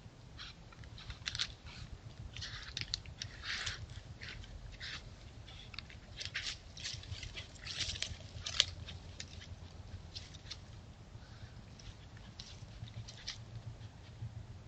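Irregular dry crackling and rustling: quick clusters of short ticks, busiest in the first two thirds with one sharp tick near the middle, over a faint steady low hum.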